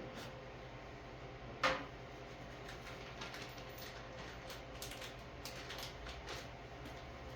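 Small objects being handled by hand: a single sharp knock about one and a half seconds in, then a run of light clicks and rustles, over a low steady hum.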